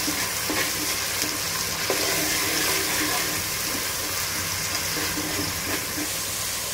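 Wet green masala paste frying in oil in an aluminium pot, sizzling steadily while a metal ladle stirs and scrapes through it, with a few light knocks of the ladle. The noise comes from the water still left in the paste.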